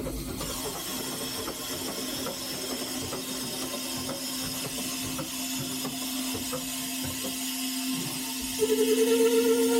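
Air brake valve in a steam locomotive cab: a thin hiss of air as the brake pipe is reduced to apply the train brakes, over a steady hum. Near the end a louder, steady whistling tone starts as the brake is released and the brake pipe recharges toward 90 pounds.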